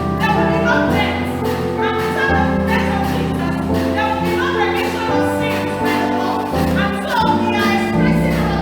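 Choir singing with instrumental backing, held notes over a steady bass line and a regular beat.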